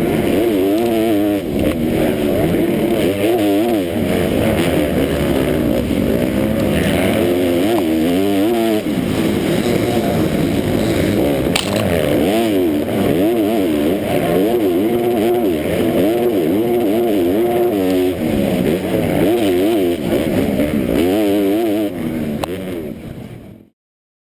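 Motocross dirt bike engine being ridden hard, its pitch rising and falling over and over with throttle and gear changes. The sound cuts off abruptly near the end.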